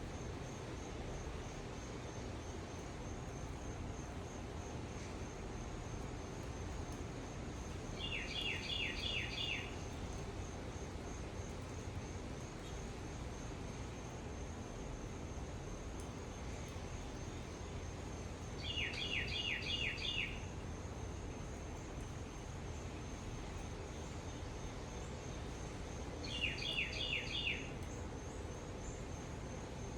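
A songbird sings a short, fast run of down-slurred whistled notes three times, about ten seconds apart. Under it runs an insect's steady, high, pulsing trill and a low outdoor background hum.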